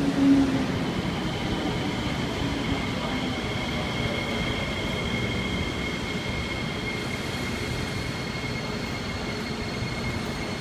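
Kawasaki C751B metro train pulling into a station: wheels and running gear rumbling, with a steady high-pitched squeal held for most of the time as it slows. A brief louder swell comes just after the start.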